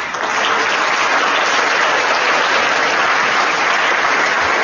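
An audience applauding steadily in a large hall, a dense, even clapping that holds at full strength throughout.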